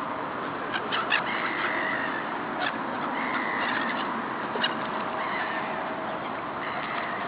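A large flock of birds calling: a harsh call repeats about every one and a half to two seconds over a steady din of chatter, with scattered short sharp notes.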